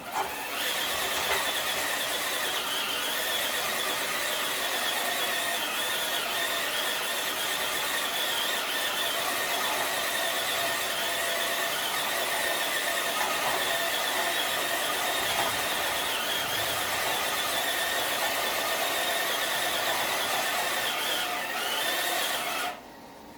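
Red Cat RC crawler's electric motor and gear train whining steadily under load as it pulls a weighted sled across concrete, cutting off suddenly near the end.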